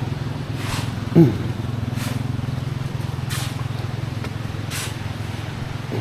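A small engine running steadily at a constant low hum. A few short swishes sound over it, and about a second in there is a brief falling pitched call.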